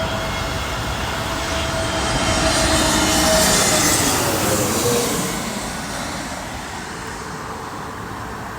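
Jet airliner passing low overhead on approach to land. The engine noise swells to a peak about three to four seconds in, then fades, and a steady whine drops in pitch as the aircraft goes by.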